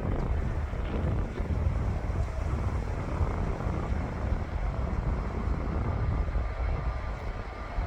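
Aircraft engine rumble mixed with wind buffeting the microphone, uneven and gusty, with a faint thin whine coming in near the end.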